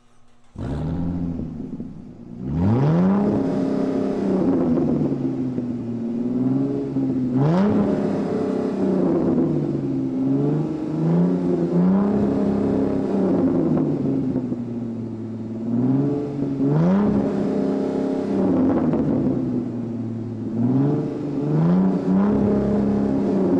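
Supercar engine starting about half a second in, then revved repeatedly, its pitch climbing and falling back to idle again and again.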